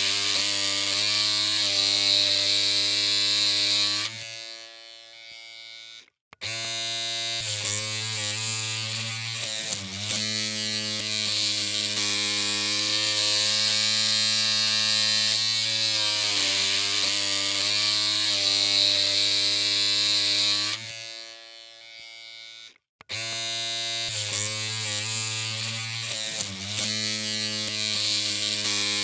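Electric hair clippers humming with a steady, even buzz. The hum dies away twice, about four seconds in and again about twenty-one seconds in, goes briefly silent, then starts again.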